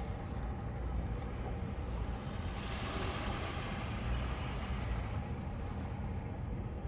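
Sea waves washing in, one swelling hiss of surf in the middle, over a steady low rumble of wind on the microphone.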